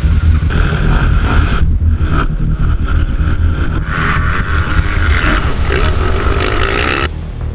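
Motocross bike engines running and revving, over background music with a heavy low beat; the engine noise cuts off suddenly near the end, leaving the music.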